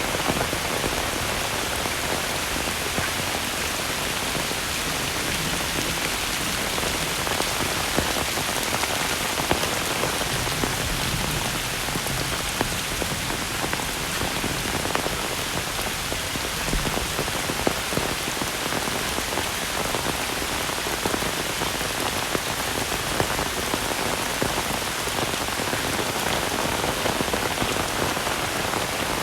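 Heavy rain falling steadily: a dense, even hiss of rain with many small drop ticks throughout.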